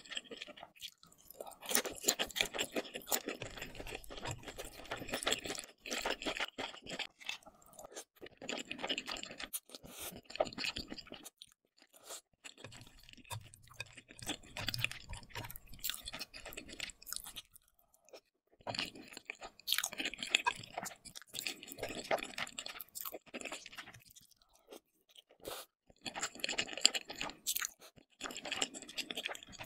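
Close-miked chewing of thick noodles and sausage in a creamy sauce: wet, crackling mouth sounds in bursts of a few seconds, with short pauses between mouthfuls.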